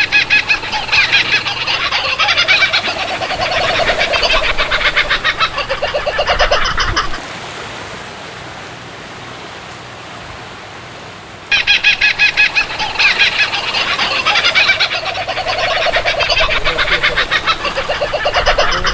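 Domestic fowl calling in fast runs of rapid, pulsed notes. Two matching stretches of about seven seconds each are heard, with a few seconds of quieter steady background noise between them.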